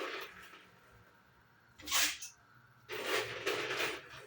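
Short bursts of hiss and crackle as a bunch of small snacks is poured into hot oil for deep frying, the last burst the longest at about a second.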